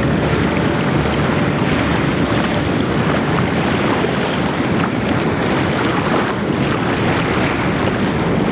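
Steady wind buffeting the microphone over waves and water rushing past a sailboat at sea.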